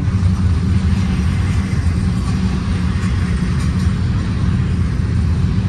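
Long freight train rolling past: a steady, loud rumble of wheels on rails.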